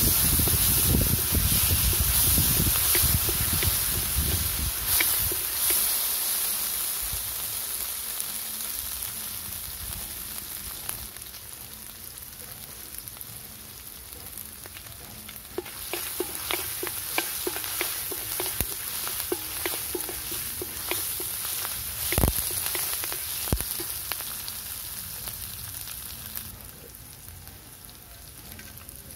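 Sliced shallots sizzling in hot oil in a large steel kadai, with a wooden spatula scraping the pan at first as the sizzle grows quieter. After curry leaves go into the oil, scattered sharp pops and clicks as they crackle, with one loud knock about two-thirds of the way through.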